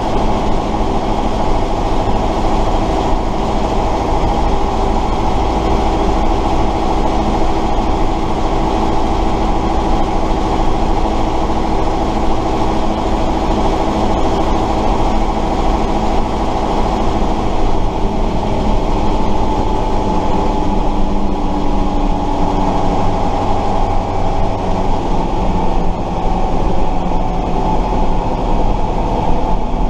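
Tatra 138 fire truck's air-cooled V8 diesel running steadily under way, heard from the cab; its pitch eases down somewhat about two-thirds of the way through.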